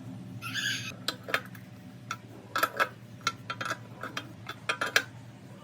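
Irregular light metallic clicks and clinks, like small metal parts or tools being handled, over a steady low hum. A brief hiss comes about half a second in.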